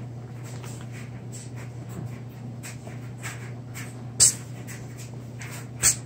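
Short breathy puffs and sputters of the mouth, with two sharper, louder ones near the end, over a steady low hum.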